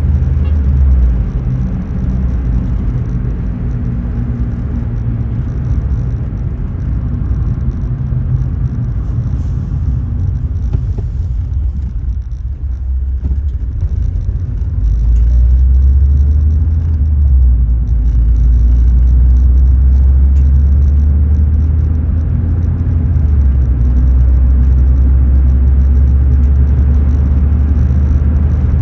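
Car rumbling steadily, heard from inside the cabin, with the deep low end easing off for a few seconds near the middle and coming back louder about halfway through.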